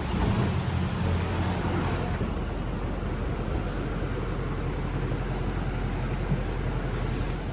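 Steady low mechanical rumble with a low hum underneath.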